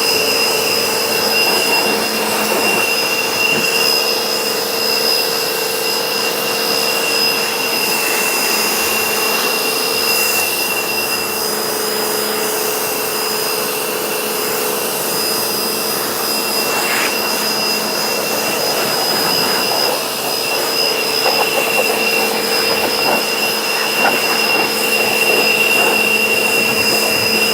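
Electric air blower running steadily with a constant high whine over rushing air, blowing dirt and water out of a car's crevices.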